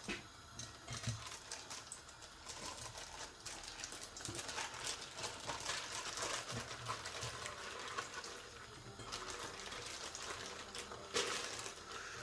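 Plastic bag crinkling and rustling as it is handled, with scattered small clicks and a sharper knock near the end.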